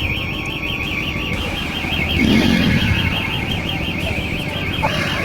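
An electronic alarm warbling: a high tone wavering rapidly and evenly up and down without a break, over a low traffic or engine rumble.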